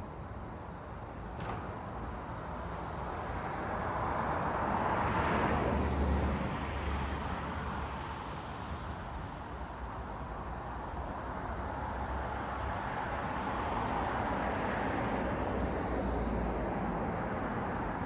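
City road traffic: tyre and engine noise of vehicles passing one after another, swelling as a vehicle goes by about six seconds in and again more slowly near the end.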